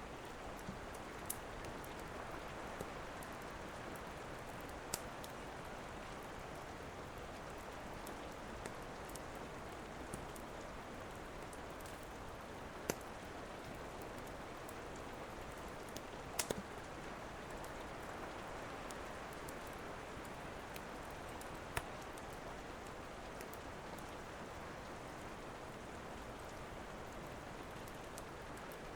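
Steady rain with a wood fire crackling, its sharp pops coming at irregular intervals.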